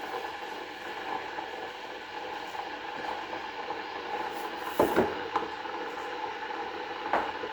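Kitchen utensils knocking and clattering, twice sharply about five seconds in and once more near the end, over a steady background noise.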